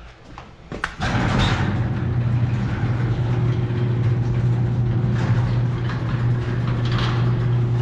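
An engine idling steadily, coming in suddenly about a second in with a strong low, even hum.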